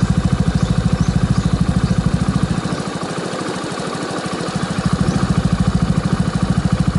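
Single-cylinder scooter engine of a 2022 Suzuki Address 125 idling through a BEAMS Power Classic Cabton aftermarket full exhaust, with an even, rapid exhaust beat. The low beat drops away for about two seconds in the middle, then returns.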